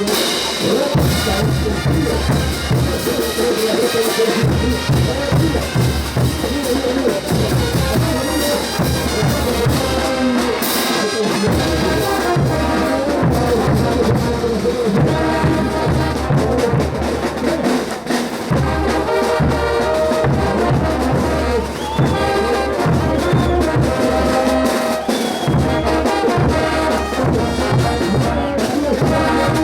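Bolivian brass band playing a ch'uta tune: trumpets and trombones over a steady bass drum and percussion.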